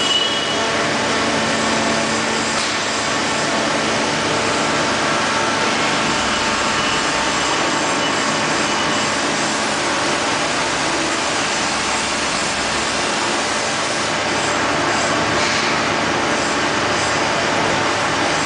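End grinder machine running steadily, a loud even grinding noise with faint steady tones and no pauses.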